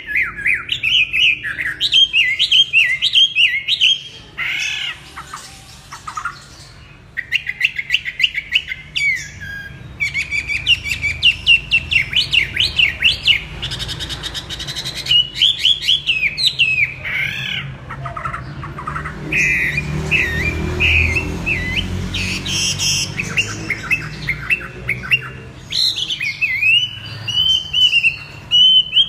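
A songbird singing a varied warbling song: phrases of rapid, sweeping high notes and quick trills, with short pauses between phrases.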